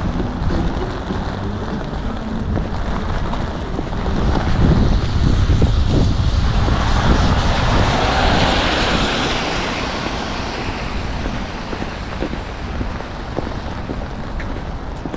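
A vehicle passing on a wet road, its tyre hiss swelling to a peak about halfway through and then fading, over a steady low rumble of wind on the microphone.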